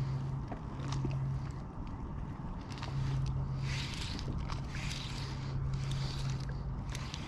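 Water lapping and swishing against a fishing kayak's hull in rhythmic swells, with scattered small clicks and a low steady hum that comes and goes.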